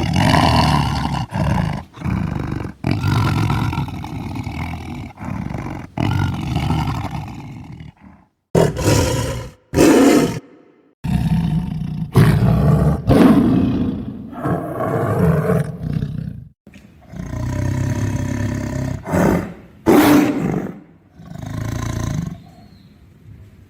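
Tiger roaring again and again, a string of loud, deep roars and snarls that start and stop abruptly with short gaps between.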